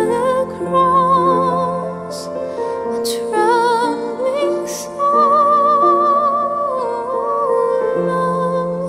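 A slow, tender song: a voice sings long held notes with wide vibrato over soft, sustained accompaniment.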